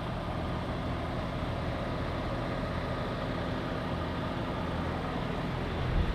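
Semi truck's diesel engine idling steadily, a low even hum, with a brief thump near the end.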